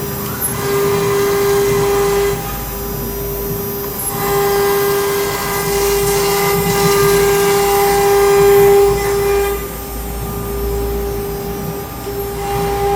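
CNC router spindle running with a steady high whine while its cutter mills letters out of an aluminium composite panel. Rougher cutting noise swells in over the whine in stretches: about half a second in, again for most of the middle and loudest around eight seconds, then once more near the end.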